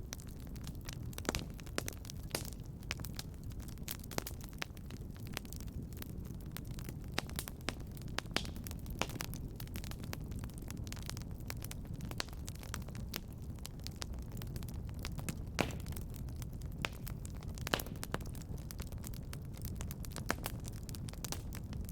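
Fireplace fire crackling: a steady low rumble of flames with frequent, irregular sharp pops and snaps.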